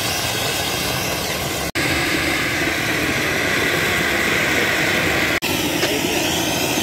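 Ground fountain fireworks spraying sparks with a loud, steady hissing roar, broken twice by brief gaps.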